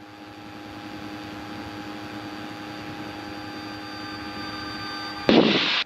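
Light aircraft's engine and propeller droning steadily in the cockpit, heard over the intercom audio, growing slightly louder. A short loud burst cuts in about five seconds in.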